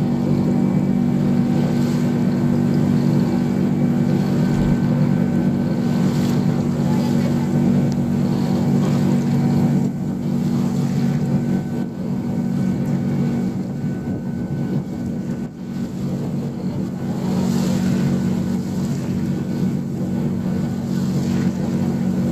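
A small harbour ferry's engine running steadily, heard on board as a low drone. It eases off about ten seconds in and picks up again near the end.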